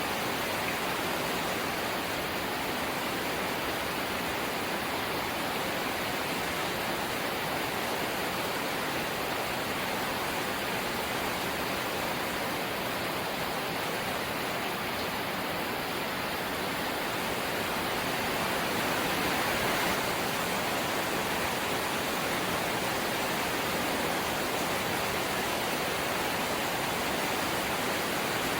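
Rain falling steadily on a corrugated zinc (seng) roof, an even, dense hiss that swells slightly about two-thirds of the way through.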